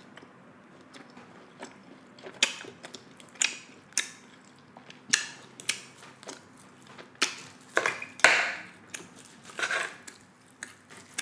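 Close-miked chewing of steak: irregular wet mouth clicks and smacks with a few louder bursts of chewing.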